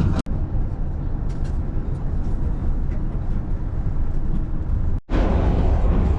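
Yufuin-no-mori sightseeing train running, a steady low rumble heard on board, broken by two very short silent gaps: one about a quarter second in, one about five seconds in.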